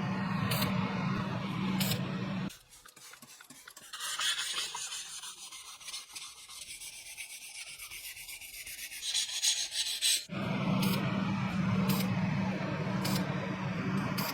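A hand abrasive tool, file or sandpaper, scraping back and forth on a workpiece for about eight seconds. Before and after it, a steady hum with a sharp tick about every second and a bit.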